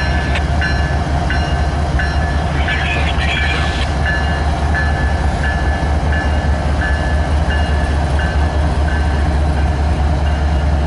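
A freight train rolling by with a steady deep rumble, while a short ringing tone repeats about one and a half times a second.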